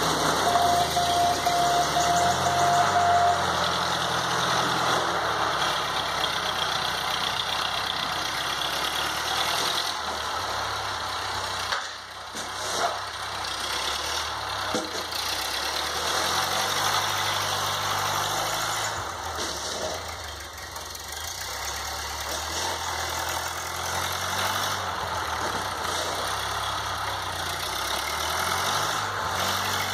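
A 1952 Ford 8N tractor's four-cylinder flathead gas engine running steadily while plowing snow, its pitch rising and falling as throttle and load change. A thin steady tone sounds over it for the first few seconds.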